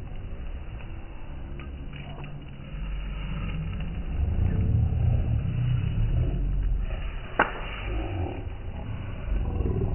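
Campfire burning: a steady low rumble with faint crackles and one sharp crack about seven seconds in.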